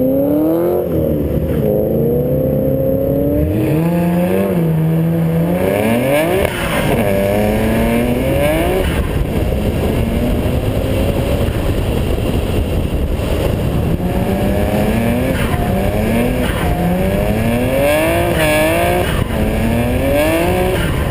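Drift car's engine, heard from on board, revving hard as the car accelerates away, its pitch climbing and dropping again and again.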